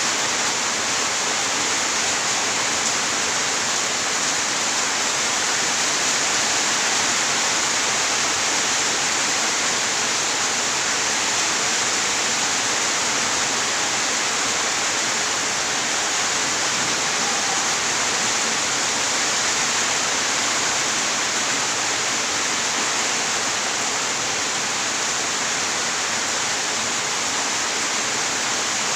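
Steady rain, an even hiss that neither swells nor breaks, with no thunder.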